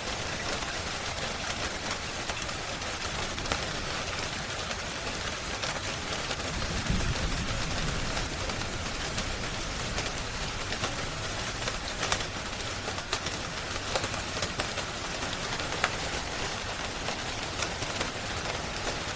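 Steady rain hiss mixed with a wood fire crackling, with scattered sharp pops. A brief low rumble about seven seconds in.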